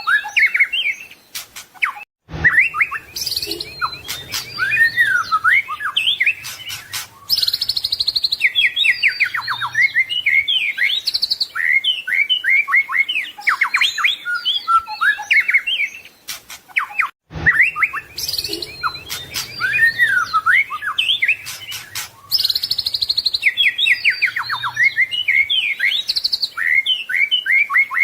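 White-rumped shama (murai batu) singing a long, varied song of quick whistles, slurred notes and rapid trills. The recording is looped: it breaks off briefly with a sharp click about two seconds in and again about seventeen seconds in, then repeats the same passage.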